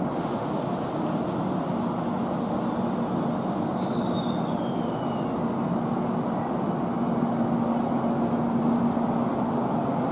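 Limited express train running slowly along a station platform toward the listener: a steady rumble with a low hum, growing gradually louder. A thin high whine falls in pitch from about a second and a half to five seconds in, with a single click near the middle.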